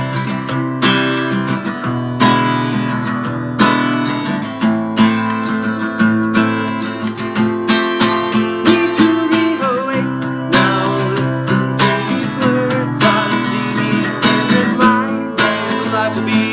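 Instrumental song passage with acoustic guitar strumming chords in a steady rhythm.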